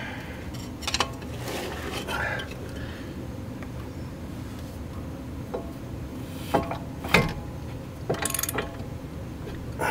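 A ratchet wrench and socket tightening a CV axle nut: scattered metal clicks and clinks, with a short quick run of ratchet clicks a little before the end.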